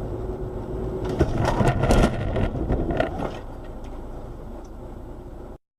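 Mini motocross bike engines running, with a steady drone at first and then louder, rougher engine noise and clatter for a couple of seconds. The sound fades and cuts off abruptly near the end.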